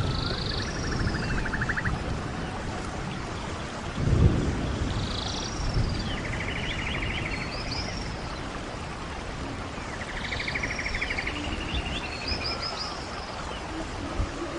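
Wind blowing over the microphone as a low rumbling haze, with a strong gust about four seconds in. Over it, birds call in three repeated groups, each a short high note, an arching whistle and a buzzy trill.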